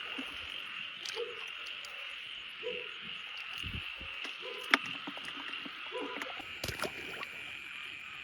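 Night paddy-field chorus: a steady high insect trill, with a frog giving a short low call about every second and a half. A few sharp clicks and low splashy thumps from wading cut in, the loudest click a little before the five-second mark.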